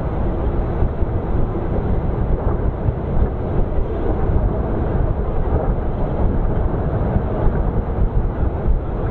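Steady low rumble of a passenger train running along the track, wheels and coach noise heard from aboard.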